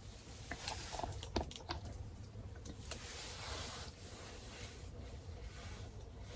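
Faint scattered clicks and light rustling, clustered in the first few seconds, over a low steady hum.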